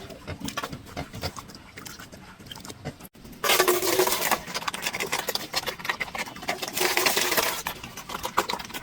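An animal making two loud, harsh cries about three seconds apart, each lasting about a second, among scattered clicks and scuffling.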